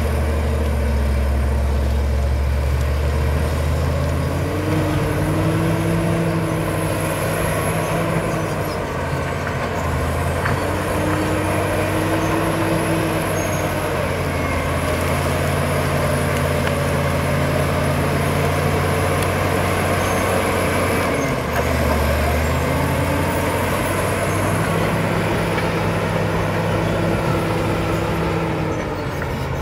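Caterpillar D7 bulldozer's diesel engine working, its pitch climbing and dropping back again and again, about every eight seconds, with a high whine that rises and falls along with it.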